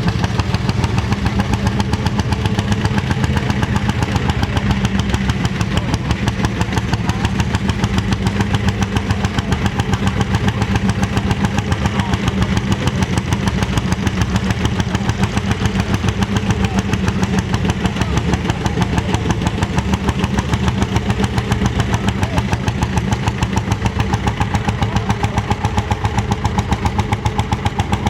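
Lanz Bulldog tractor's single-cylinder two-stroke hot-bulb engine running steadily, with an even, rapid pulsing exhaust beat.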